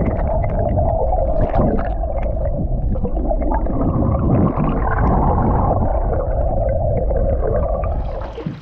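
Canoe hull scraping and grinding along a shallow bottom in one long, continuous groan that fades near the end, a sign the boat is running aground in water barely deep enough.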